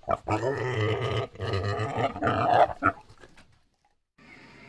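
Warthog growling: two long, low growls of about a second each, then a short grunt. After a moment of silence a faint steady hum begins near the end.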